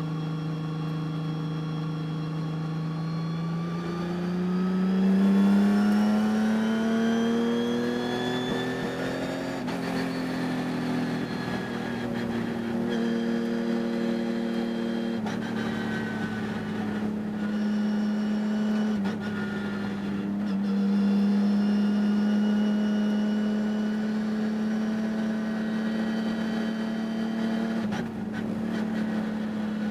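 Racing engine running hard: it revs up over the first several seconds, then holds high, fairly steady revs with a few brief dips. The owner reports the engine had a high-RPM miss all through this race.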